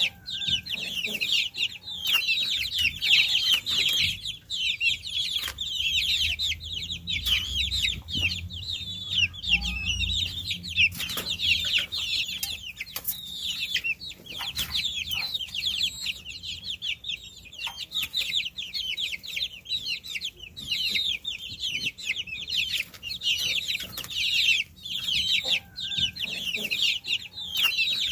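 A brood of baby chicks peeping continuously, many short, high falling calls overlapping.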